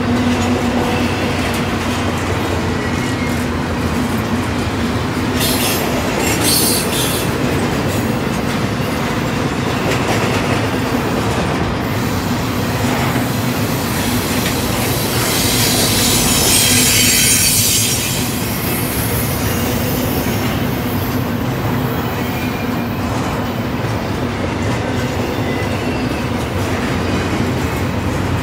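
Double-stack intermodal container train rolling past on well cars: steady, loud rumble and clatter of steel wheels on the rails, rising into a louder high-pitched screech for a couple of seconds around the middle.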